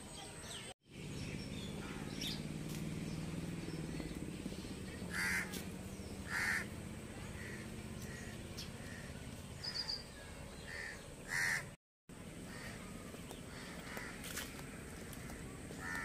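Birds calling outdoors: a few short, loud calls about five, six and a half and eleven seconds in, with fainter calls between, over a low steady hum.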